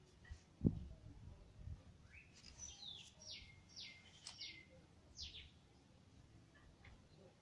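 A bird chirping: a quick run of about five short falling calls, faint, with one dull thump near the start.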